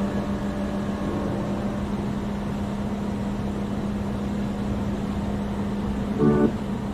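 Steady low hum of idling vehicles in a parking lot, one constant low tone under a noisy outdoor background. The tail of the preceding music fades out in the first two seconds, and a short pitched blip sounds about six seconds in.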